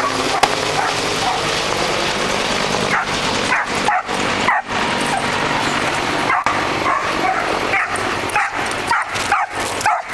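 A dog yipping and whining repeatedly in short high cries over a steady loud rushing noise.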